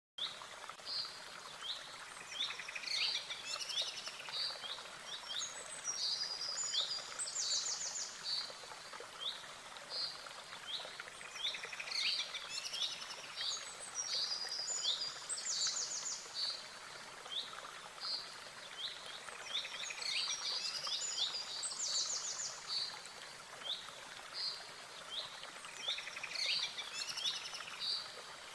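Birdsong: short chirps and rapid trills over a steady background hiss. The same sequence of calls recurs about every eight to nine seconds, like a looped nature recording.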